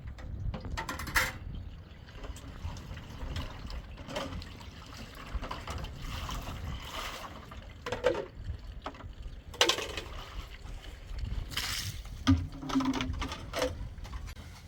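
Liquid trickling and being handled, with a few sharp knocks and clatters.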